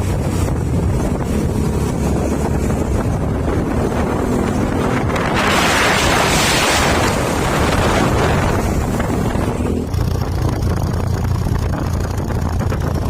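Truck engine running steadily with wind buffeting the microphone; about five seconds in a loud rushing hiss rises over it for about four seconds, then drops away.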